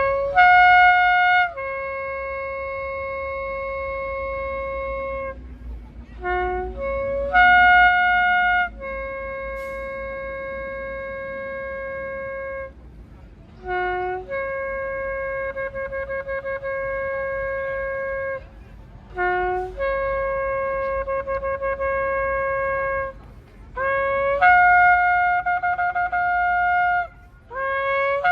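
Shofar blown in five long blasts. Each blast opens with a few short notes that step up in pitch, then settles into a held note lasting about three to four seconds. Some of the held notes carry a fast flutter.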